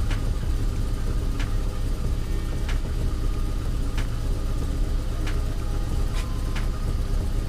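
VAZ 2112's four-cylinder petrol engine idling steadily, with a few sharp clicks spread through it; the scanner has logged misfires and an oxygen sensor fault on this engine.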